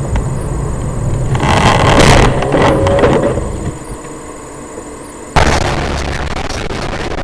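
A car crash heard from inside a vehicle. Over a steady low road and engine rumble, a loud crash about a second and a half in lasts roughly a second, with a brief higher tone just after it. The sound dies down, then near the end cuts abruptly to another steady rumble.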